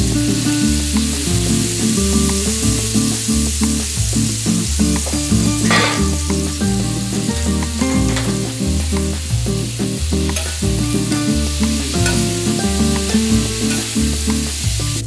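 Vegetables stir-frying on a hot electric griddle plate: a steady sizzle as they are turned and tossed with spatulas. Background music with a steady bass line plays underneath.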